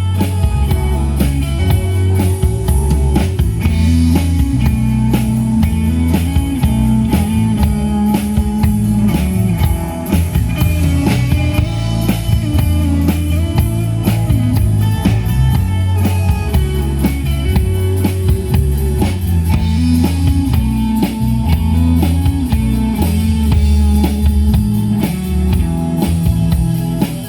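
A rock band playing an instrumental break: guitar over a steady drum-kit beat, with no vocals.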